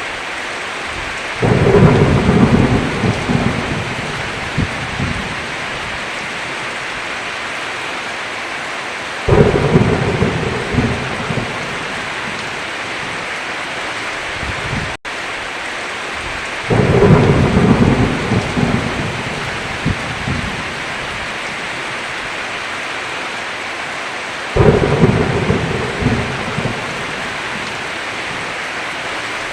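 Heavy rain falling steadily, with four rolls of thunder about every seven to eight seconds, each rumbling for a few seconds and fading. The rain cuts out for an instant about halfway through.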